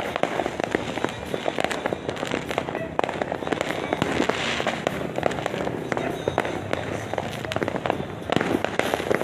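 Many firecrackers and fireworks going off at once, a continuous dense crackling of small bangs with sharper pops scattered through it.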